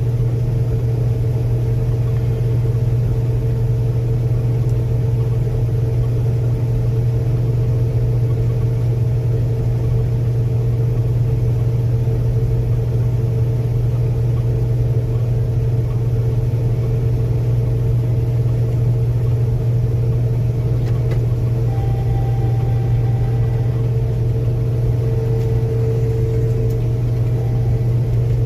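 Combine harvester running steadily while cutting soybeans: a constant low drone with a steady hum above it.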